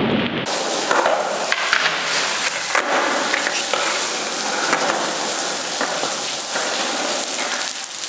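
Skateboard rolling over wet ground, starting about half a second in: a steady hiss from the wheels, with scattered clicks and knocks.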